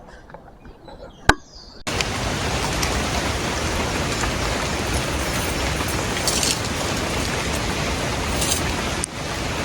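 A sharp click in a quiet stretch, then, about two seconds in, a steady rushing noise starts abruptly and holds with no pitch to it.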